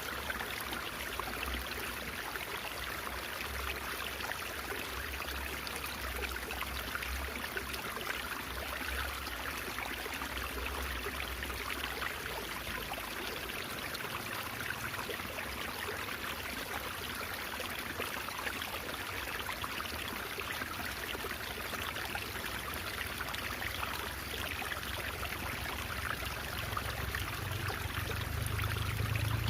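Steady trickling and babbling of water in a small stream, running on without break. A low rumble swells underneath near the end.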